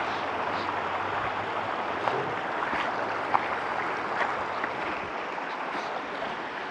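Stream water rushing steadily, with scattered small splashes and clicks.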